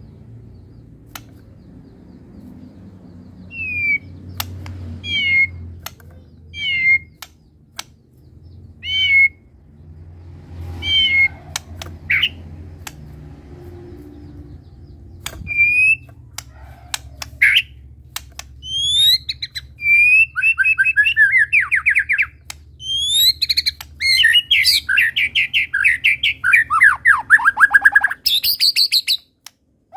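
White-rumped shama (murai batu) singing. First comes a string of single down-slurred whistled notes about a second apart. From about halfway it breaks into a fast, dense song of rattling trills and sweeping notes that grows louder toward the end, over a low steady hum and scattered sharp clicks.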